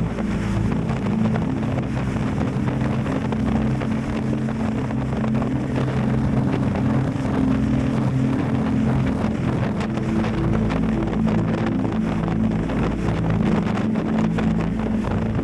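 Yamaha Tracer 7 GT's 689 cc parallel-twin engine running steadily under way, with wind noise buffeting the action camera's microphone.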